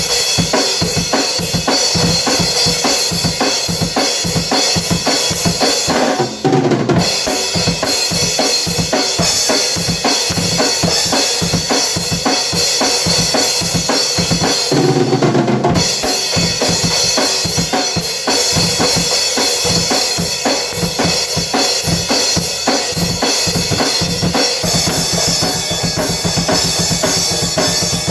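Drum kit played continuously: a fast, steady run of drum strikes under a constant wash of cymbals, with two brief breaks in the pattern about six and fifteen seconds in.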